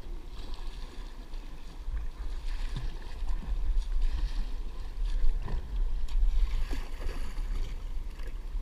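Wind buffeting the microphone with a low rumble, over a haze of water noise from a kayak on the water, with a few small knocks.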